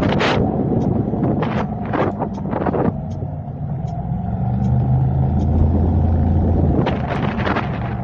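Car driving in traffic: steady road and engine rumble with short gusts of wind on the microphone. A deeper engine drone builds up midway and drops away shortly before the end.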